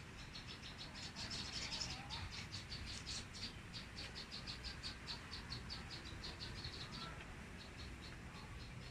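Insect chirping: a rapid, even series of short high chirps, several a second, thinning out about seven seconds in.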